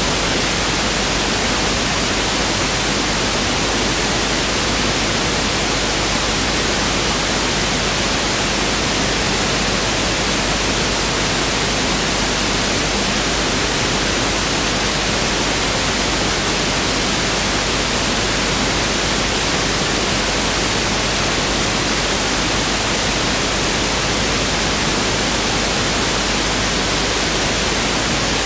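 Pink noise (1/f) test signal: a steady, even hiss spread across the whole audible range, unchanging throughout.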